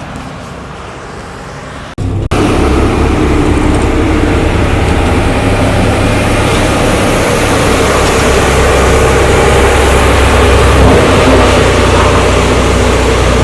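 A loud, steady rumble of heavy vehicles or road machinery running close by. It cuts in suddenly about two seconds in, after a quieter stretch.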